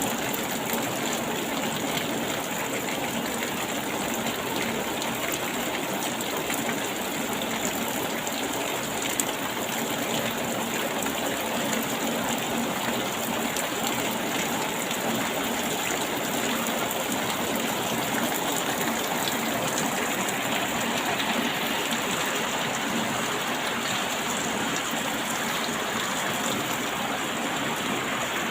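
Steady rain falling: an even, unbroken hiss of water with many fine drop ticks in it.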